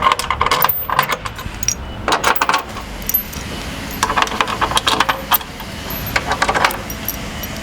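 Steel bolts and hardware clinking and rattling in short bursts as the bolts are worked back through the skid's bushings and mounting holes.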